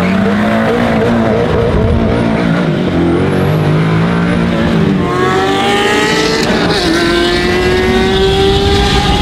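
Sports-car engines revving and accelerating hard, heard from inside a Koenigsegg Agera's cabin. Uneven revving at first, then from about halfway two long pulls with the engine pitch rising steadily, split by a gear change.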